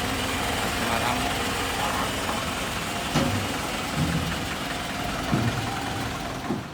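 A vehicle engine idling steadily, with a single sharp knock about three seconds in.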